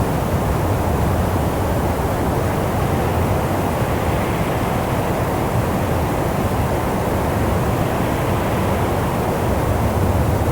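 Steady wind noise, a deep even rush with most of its weight in the low range and no gusts or breaks.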